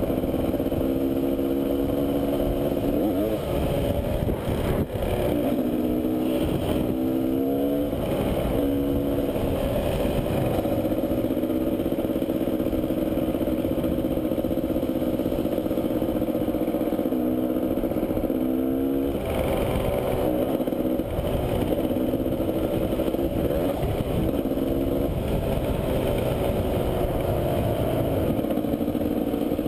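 Enduro dirt bike engine heard from on board while riding, running steadily with its note climbing and dropping a few times as the throttle and gears change, most clearly about six to eight seconds in and around twenty seconds in.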